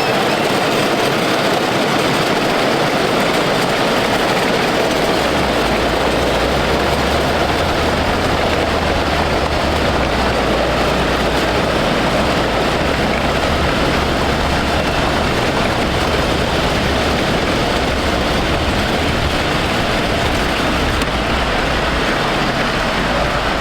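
Small race cars running on a short oval track: a loud, steady engine noise that holds without clear revving, with a low hum coming in a few seconds in.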